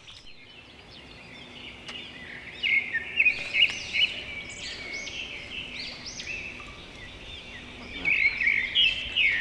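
Small birds chirping in rapid, repeated high calls, loudest in two clusters about three seconds and eight seconds in.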